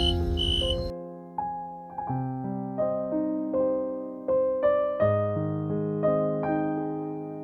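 Gentle solo piano music, single notes struck over held lower chords and left to ring. For about the first second, grass insects chirp in even high pulses, about two a second, behind the piano; then they cut off abruptly.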